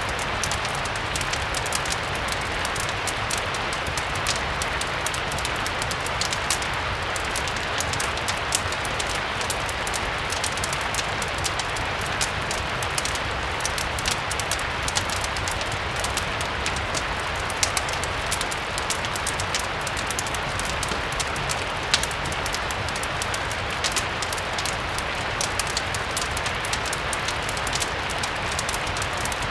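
Steady rain mixed with a crackling fireplace: an even hiss of rain with scattered sharp pops and crackles, the loudest about 22 seconds in, over a low rumble.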